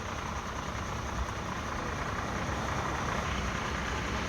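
Heavy truck's engine running steadily.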